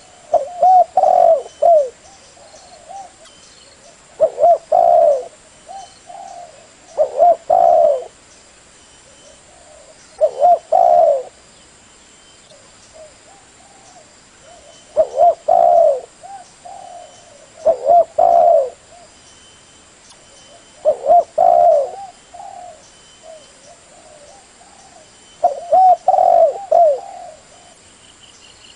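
Spotted dove cooing in repeated phrases, about eight loud calls a few seconds apart with softer coos in between: a call track used as a lure to draw in spotted doves.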